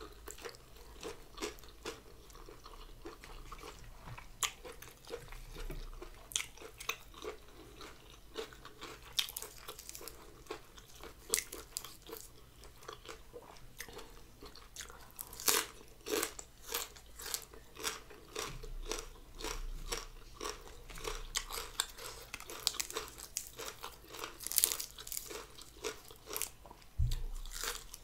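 A person chewing and biting into crunchy food, noodle salad with raw leafy greens, close to the microphone: a steady run of crisp crunches that gets busier and louder about halfway through. A single low thump comes near the end.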